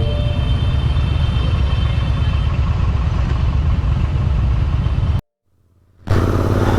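Motorcycle engine running steadily under way, with road and wind noise; the sound cuts out for about a second roughly five seconds in, then resumes.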